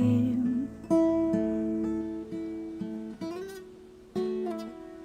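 Acoustic guitar playing the closing chords of a song: a few chords struck and left to ring out, fading away.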